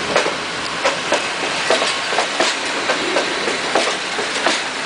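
Railway wagons rolling past, their wheels clacking over rail joints in irregular sharp clicks over a steady rolling noise.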